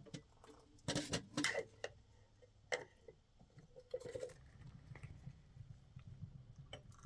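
A cluster of sharp knocks and clatter about a second in, a single sharp click near three seconds, and a few softer knocks after, as tools and wood are handled during work on a wooden door.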